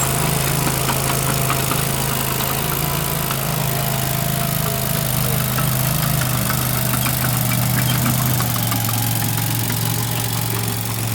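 An engine running steadily at a constant speed, with faint scattered clicks and taps over it.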